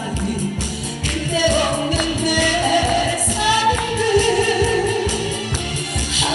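A singer's live vocal over backing music with a steady beat; the voice comes in about a second and a half in and holds long notes.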